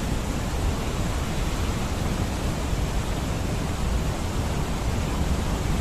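Large monsoon-season waterfall making a steady, even rushing roar.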